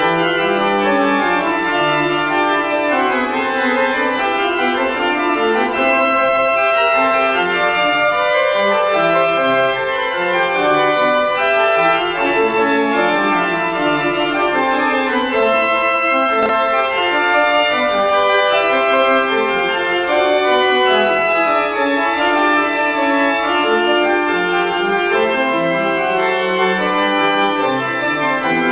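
Organ music: sustained chords and a moving melody line played on an organ.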